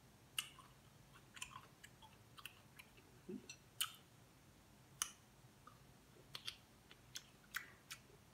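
Faint, close chewing with wet lip smacks, from someone eating seafood-boil food dipped in butter sauce: short sharp smacks coming irregularly, roughly two a second.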